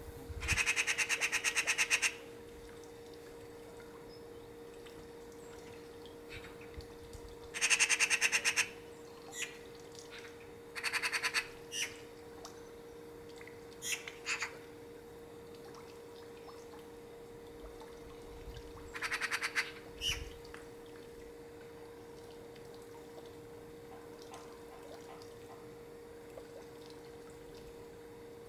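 A bird's harsh, rapid rattling chatter, heard in five separate bursts of half a second to two seconds each, over a faint steady hum.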